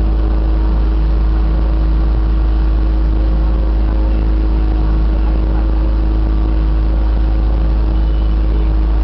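Motorboat engine running steadily under way, with a heavy, steady low rumble and a constant hum.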